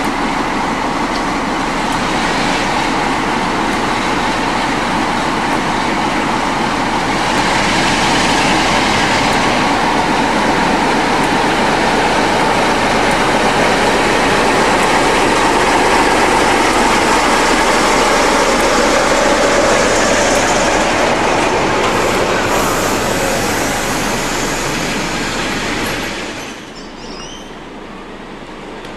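Train running past on the tracks, a loud, dense rumble of wheels and machinery. It grows louder about seven seconds in and drops away sharply near the end.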